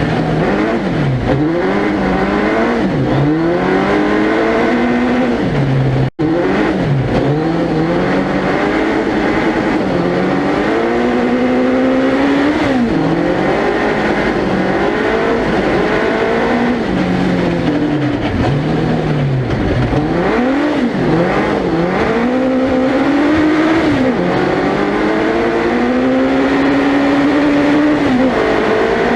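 Suzuki Hayabusa 1300cc inline-four engine in a four-wheel-drive tubular-chassis prototype car, heard onboard, revving up and dropping back over and over as the driver accelerates, shifts and lifts off. The sound cuts out for an instant about six seconds in.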